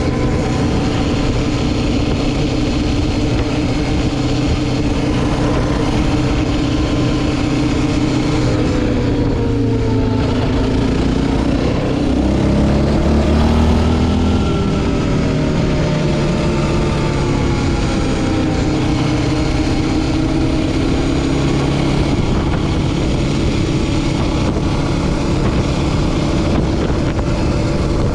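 Yamaha Raptor 700R ATV's single-cylinder four-stroke engine running under way at a steady pitch. About halfway through it revs, its pitch falling and rising again.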